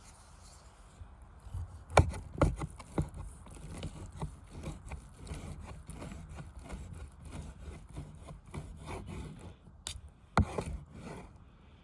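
Handling noise: a few sharp knocks early on, then irregular rubbing and scraping, with another knock near the end.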